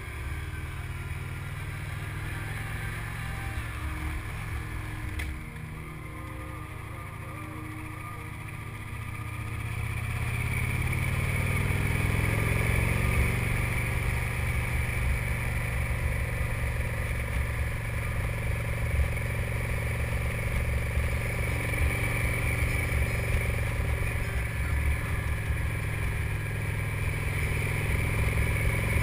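Victory Cross Country motorcycle's V-twin engine under way, heard from a helmet camera. It eases off about five seconds in, then climbs in pitch and gets louder around ten to twelve seconds in, and runs steady after that.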